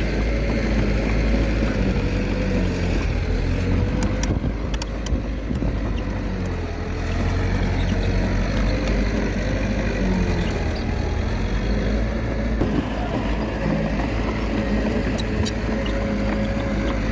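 Komatsu D21A bulldozer's diesel engine running under load, its pitch wavering up and down as the machine pushes soil, with a few short sharp clicks.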